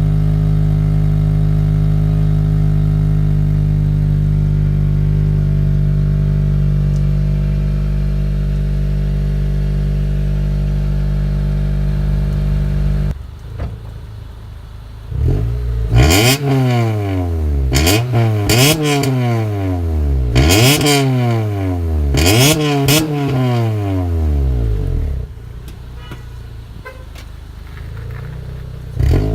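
2004 Honda Accord's K-series four-cylinder exhaust through 2014 Mustang GT stock mufflers. It idles steadily and fast just after a cold start. About halfway through the sound drops away, then the engine is given a series of quick revs, each rising and falling back, before settling to a quieter idle.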